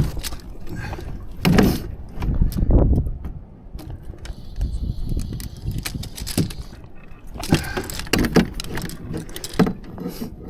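Irregular knocking, rattling and rustling of gear being handled, with several louder thumps in clusters.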